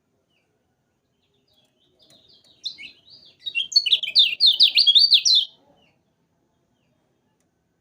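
Kecial kuning (lemon-bellied white-eye) singing one burst of about three and a half seconds. It opens with scattered high chirps, then breaks into a fast run of sharp, down-slurred notes that are loudest near the end and stop abruptly.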